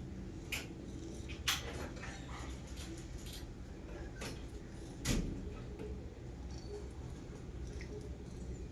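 A few scattered clicks and knocks of tableware or small objects being handled, the loudest about five seconds in, over a steady low hum.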